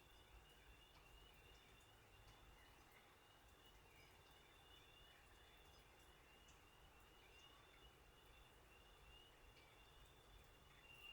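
Near silence: faint outdoor ambience with a steady high-pitched trill and a rapid run of repeated chirps beneath it, with a few scattered faint ticks.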